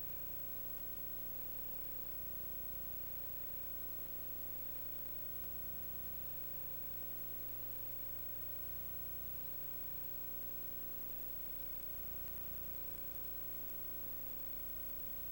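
Steady hiss with a faint constant electrical hum, unchanging throughout; no other sound.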